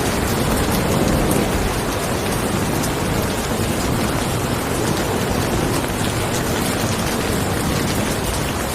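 Steady rain falling, with a low rumble of thunder that eases off in the first second or two.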